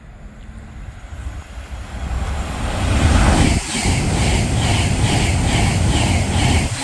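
Avanti West Coast Class 390 Pendolino electric train passing through the station: a rushing roar that builds over the first few seconds and then holds steady, with a regular clicking of wheels over rail joints about three times a second.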